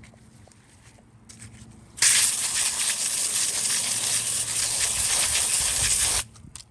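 Faint rustling, then a loud steady hiss that starts suddenly about two seconds in, holds for about four seconds and cuts off suddenly near the end.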